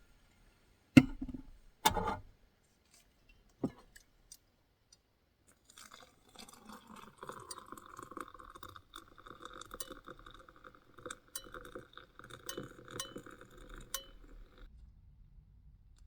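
Two loud clinks of dishware, a softer third one, then a steady whirring with scattered light ticks for about nine seconds that cuts off suddenly.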